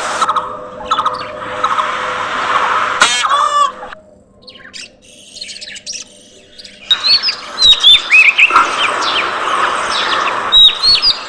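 A flock of budgerigars chirping and chattering. The calls dip to near quiet for a few seconds midway, then return as many loud, sharp, falling chirps.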